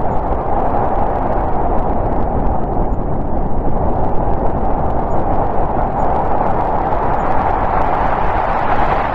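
Steady howling winter wind of a snowstorm, a dense rushing noise that swells and eases slightly without a break.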